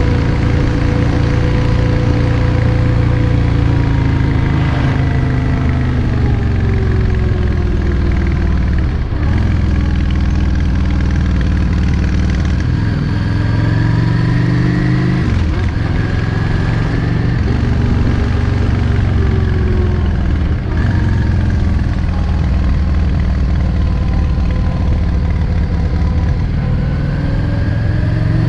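Yamaha XVS 650 Drag Star's air-cooled V-twin engine running under way. Its note rises and falls with the throttle, with short dips about 9, 15 and 21 seconds in.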